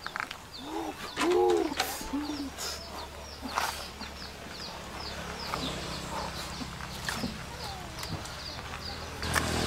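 Birds calling: a few low, arching cooing calls in the first couple of seconds, then a quick run of short high chirps repeated about three times a second, with scattered light knocks.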